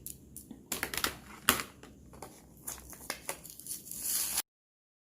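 Crinkling, rustling and tearing of material handled by hand, with irregular sharp crackles and clicks, cutting off abruptly about four seconds in.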